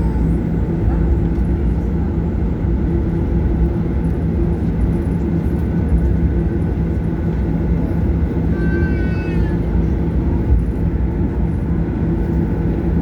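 Cabin noise of a Boeing 737-800 with its CFM56-7B engines running: a steady low rumble with a constant engine hum. A short falling tone sounds about nine seconds in.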